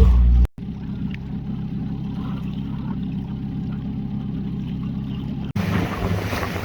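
Small boat's engine running steadily. The sound cuts off abruptly about half a second in and resumes, then changes suddenly near the end to wind buffeting the microphone over the engine.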